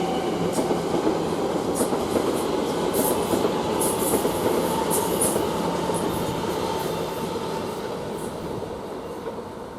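Elizabeth line Class 345 electric multiple unit departing: a steady rail rumble with short high-pitched squeaks from the wheels on the track, fading away over the last few seconds as it pulls off.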